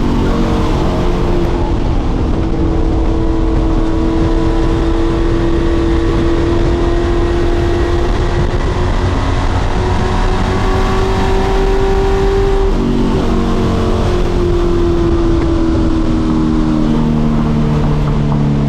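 Pro Truck race engines running at speed on the oval: a loud, continuous engine note that drifts slowly in pitch. About 13 seconds in the pitch breaks and falls, settling into lower, separate engine tones as the trucks lift off and come around.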